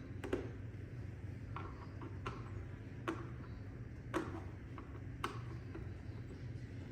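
Sharp plastic clicks and taps from handling and opening a robot vacuum's casing and battery parts. There are about seven irregular clicks, the loudest around three and four seconds in, over a steady low hum.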